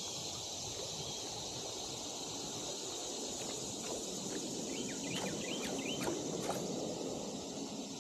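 Summer creek ambience: a steady high insect drone over a low rushing background, with a quick run of bird chirps a little past the middle.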